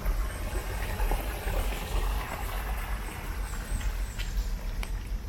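A vehicle passing on a rain-soaked street: tyre hiss swells and fades over the first few seconds above a steady low rumble.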